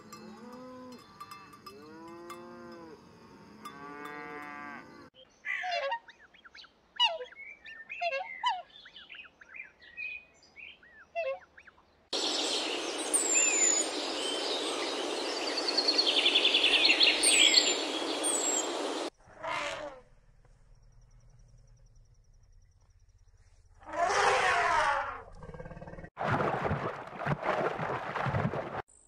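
Several short animal recordings in a row, changing abruptly: cattle mooing, with birds chirping.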